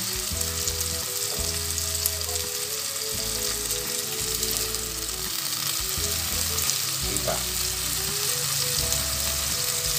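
Garlic, onion and tomato sautéing in oil in a metal pot, a steady sizzle. Quiet background music with a melody and bass notes plays under it.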